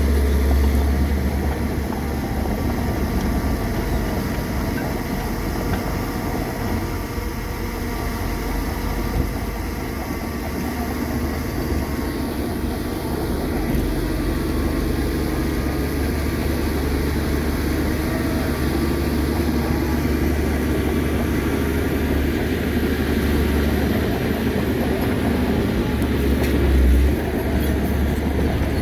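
Crawler bulldozer's diesel engine running steadily under load, a deep continuous drone that swells briefly near the end.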